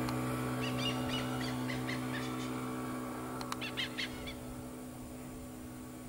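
A wild bird calling in short, quickly repeated notes, in two runs: one from about half a second to two and a half seconds in, another around three and a half to four seconds. A steady low hum runs underneath and slowly fades.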